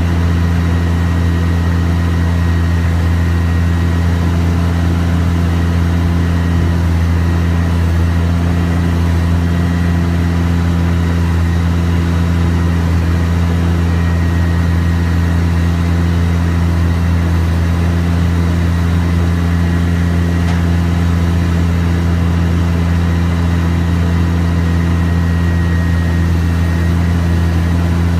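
Diesel engine idling steadily at a constant low drone, with no change in speed.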